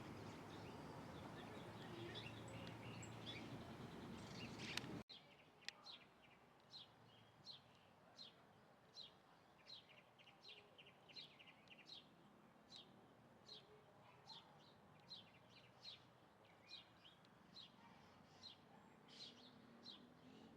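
Faint bird calls: a bird repeating short, high, falling chirps at an even pace of a little over one a second. Before a sudden cut about five seconds in, there is a louder outdoor background with a few scattered chirps.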